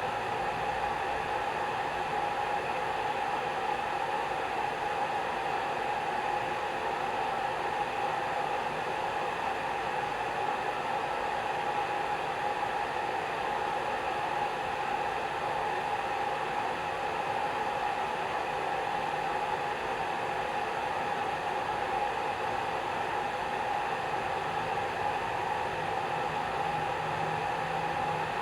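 Hair dryer running steadily: a continuous blowing rush with a steady hum-like tone in the middle of the range.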